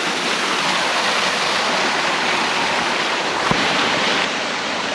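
Steady rush of a small waterfall. A single soft knock sounds about three and a half seconds in.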